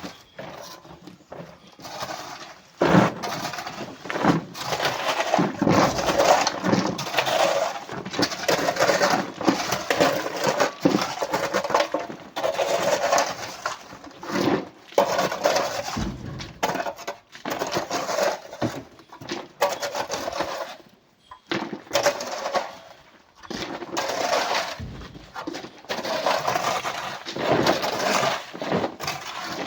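Chunks of coral rock and stones clattering and crashing together in a dense, uneven run of impacts as they are loaded into a truck, starting about three seconds in, with short lulls.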